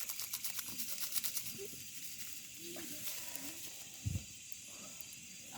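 Food crackling and hissing as it fries over a campfire, a dense run of fine pops that thins out after about a second and a half, over a steady high chirring of insects. A soft thump comes about four seconds in.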